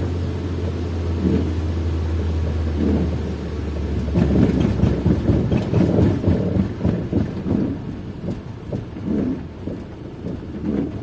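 Car driving in the rain, heard from inside the cabin. A steady low engine drone fades about four seconds in, then uneven low rumbling from the road and rain follows and slowly gets quieter.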